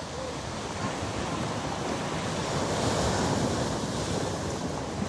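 Stormy sea surf, waves breaking on a stony beach and swelling to their loudest about halfway through, with wind on the microphone.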